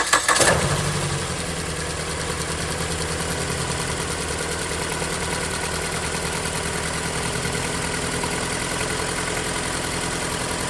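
Ford Escape four-cylinder engine running at a steady, evenly pulsing idle during a compression test on cylinder 1, with the gauge in that cylinder's spark plug hole. It comes in with a loud surge right at the start and settles within about a second and a half.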